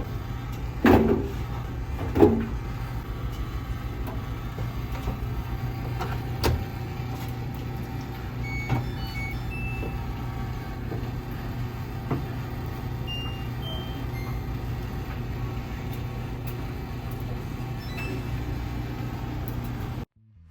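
Washing machine running with a load of tennis shoes: a steady low hum, with a few sharp knocks about a second and two seconds in and scattered short electronic beeps around the middle.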